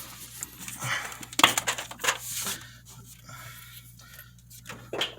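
Scattered clicks, knocks and rustling from hands working spark plug wires in an engine bay, with a cluster of sharper clicks a second or two in and another knock near the end.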